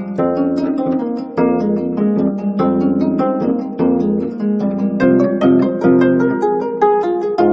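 25-string gayageum, a Korean plucked zither, playing solo: a dense stream of plucked notes over lower strings that ring on.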